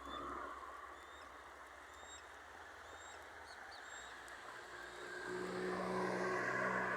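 Quiet outdoor background with a few faint short high chirps, then a motor vehicle approaching, its engine hum and tyre noise rising over the last two seconds.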